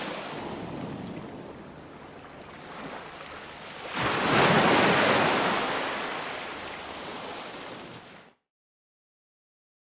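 Ocean surf: waves washing ashore, with one wave breaking loudly about four seconds in and fading as it runs out. The sound cuts off abruptly to silence near the end.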